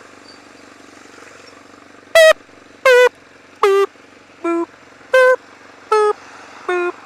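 A rider's voice inside the helmet, singing a string of short "boop" notes over steady motorcycle engine and wind noise. There are seven notes, starting about two seconds in, each at a different pitch and dropping at its end.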